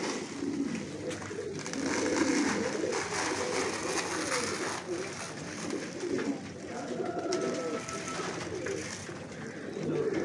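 A flock of domestic pigeons cooing continuously, several birds' low warbling coos overlapping.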